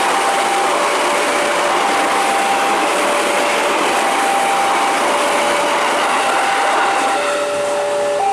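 Train passing a level crossing with a steady rush of wheel and rail noise, over a crossing alarm alternating between a high and a low tone, each held about a second. Near the end a train horn chord begins.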